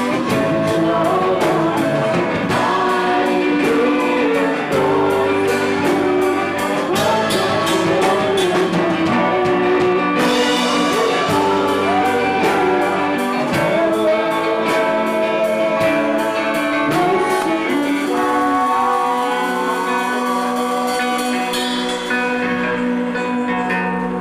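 Live band playing, with a steady beat and a wavering melody line over it. About eighteen seconds in the beat drops out, leaving held tones with a slow rising slide.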